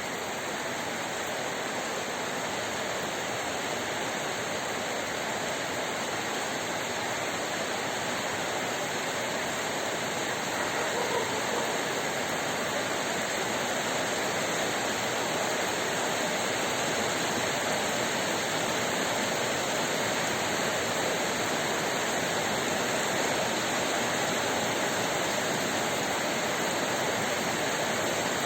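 Heavy rain pouring down in a steady, dense hiss, growing slightly louder about a third of the way through.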